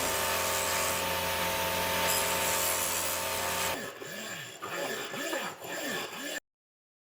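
Small power tool with an abrasive head running against metal, grinding off rust. About three and a half seconds in it stops and gives way to rubbing and scraping strokes. The sound cuts off abruptly near the end.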